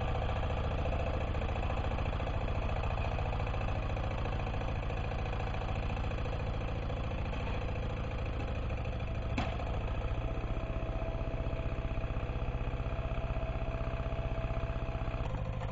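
Diesel engine of an MB-2 walk-behind tractor running steadily under ploughing load. A single sharp knock comes about nine seconds in, after which the engine's note changes.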